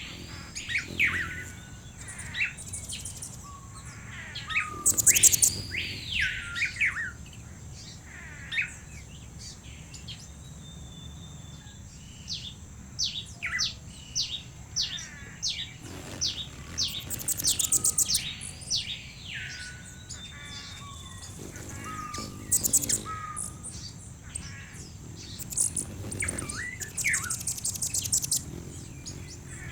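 Mixed wild birdsong ambience: several birds calling, with short chirps, arching whistled notes and rapid high trills coming every second or two, over a thin steady high-pitched whine.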